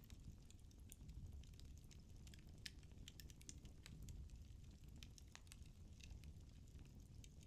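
Firewood burning in a fireplace: faint, irregular crackles and small pops from the burning logs, one a little louder a few seconds in, over a soft low rumble of the flames.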